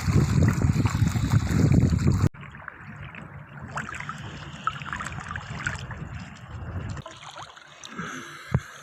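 Water sloshing and gurgling around the microphone while snorkelling. There are three short stretches with abrupt cuts between them; the first is a loud low rumble, and the other two are quieter with small trickling clicks.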